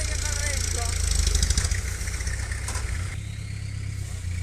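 A dump truck's diesel engine running with a deep steady rumble, briefly louder about a second in and easing off a little around the three-second mark.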